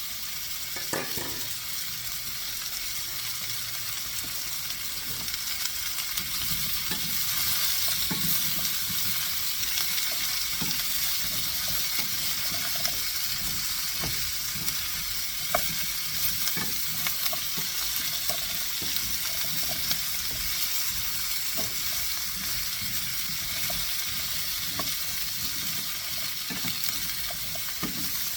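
Zucchini and yellow squash sizzling in hot olive oil in a skillet on medium-high heat, a steady frying hiss that swells a few seconds in, with scattered light knocks of the pan and a utensil as the vegetables are stirred.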